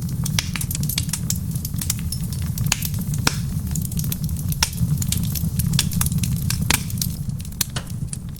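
Wood fire in a stone fireplace crackling and popping irregularly, with a few louder pops, over a steady low rumble.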